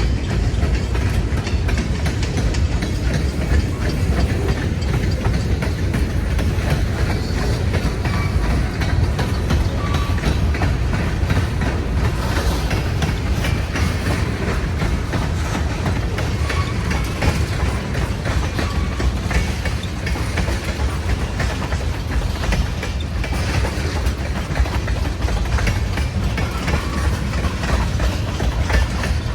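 Freight train cars rolling past steadily, wheels clicking over the rail joints, with wind buffeting the microphone.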